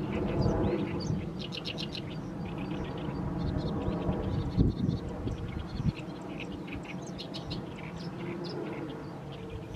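Oriental reed warbler singing: runs of quickly repeated notes broken by short pauses, over a steady low rumble, with a dull thump about four and a half seconds in.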